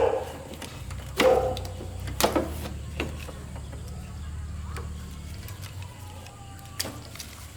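Scattered sharp knocks and clinks of hard objects being handled, about five of them, over a steady low hum; the first two ring briefly.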